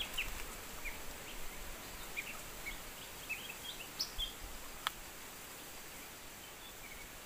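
Faint bird chirps: short, high calls scattered through, over an even background hiss, with one sharp click a little before five seconds in.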